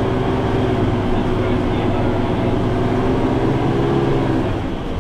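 Car engine labouring at near-full throttle while towing a caravan up a very steep grade, heard from inside the cabin: a steady, even-pitched drone over road rumble, easing off near the end.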